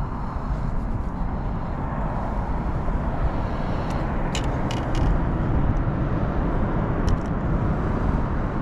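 Steady wind rumble on the microphone out on open water, with a few short sharp clicks about four to five seconds in and one more near seven seconds.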